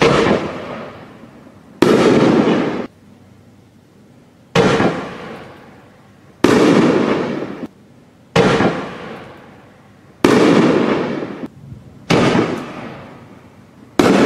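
1.75-inch, 60-gram Sunwing Dragon Strobe Smash mine-and-break canister shells firing one after another: eight sharp bangs about two seconds apart, each fading over about a second. The shells launch from the mortar tube with their mine effects and break in the air.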